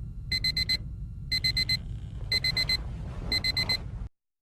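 Electronic alarm clock beeping in quick runs of four high beeps, a run about once a second, signalling wake-up time. It cuts off suddenly near the end.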